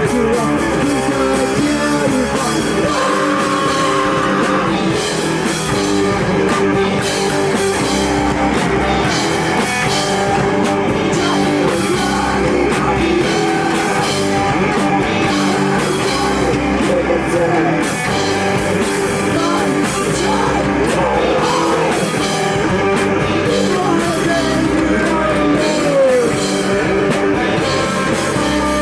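Live rock band playing a song, with guitars, a drum kit and a singing voice.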